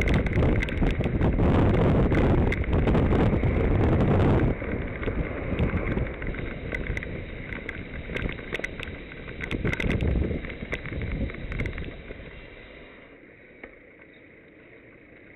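Wind rushing over the microphone of a camera on a moving bicycle. It drops sharply about four seconds in, then fades away, with scattered light clicks.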